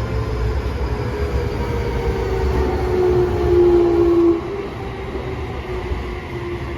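Toei 6300 series subway train's VVVF inverter and traction motors whining, the inverter sound nicknamed "tornado inverter", with several tones slowly falling in pitch over the rumble of the running train. The loudest tone cuts off suddenly a little over four seconds in.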